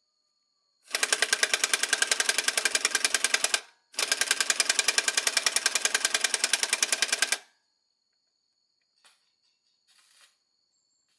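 A power tool clattering with rapid, evenly spaced blows, in two bursts of about three seconds each separated by a short pause.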